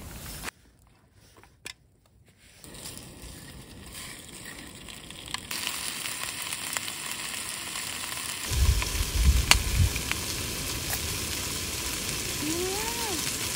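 Black-pork jokbal (braised pork trotters) sizzling in a pan as it is heated up, a steady frying hiss. It begins after a brief silent gap and grows louder in steps, with a low thud about two-thirds of the way through.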